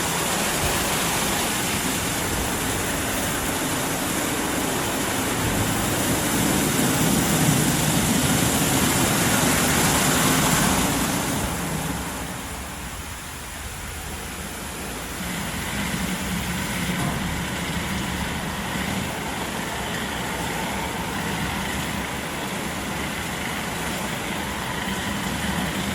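WashTec SoftCare Pro Classic rollover car wash running, a steady machine-and-spray noise. It grows to its loudest about ten seconds in, drops away around twelve seconds, then settles back to a steady, somewhat lower level.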